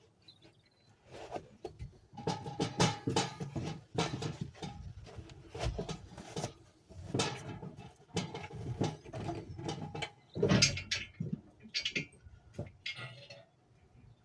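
Irregular knocks, bumps and clatter of a person moving about and handling gear aboard the boat, with the loudest knock about ten seconds in.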